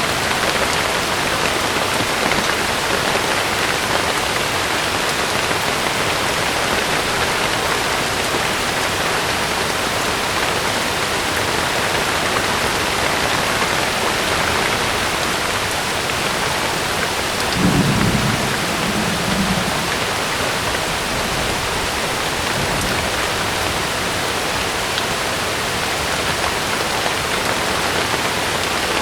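Heavy rain falling steadily on a camping tent, with a brief low rumble of thunder a little past the middle.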